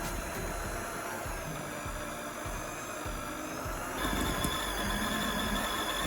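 Electric hand mixer running, beating batter, with a steady motor whine that turns louder and higher about four seconds in.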